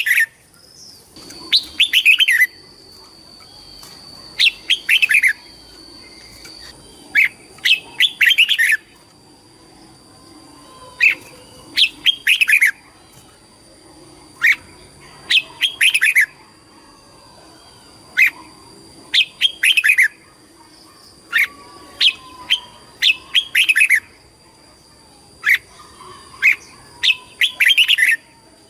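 Red-whiskered bulbul singing short, loud phrases of quick descending whistled notes, one phrase every three seconds or so. A faint steady high-pitched tone hums in the background.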